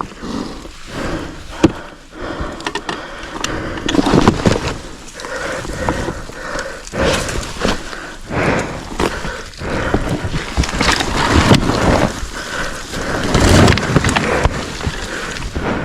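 Kawasaki KLX300R single-cylinder four-stroke dirt-bike engine revving up and down over a trail, with rough noise and knocks from the ride. The level swells and drops every second or two.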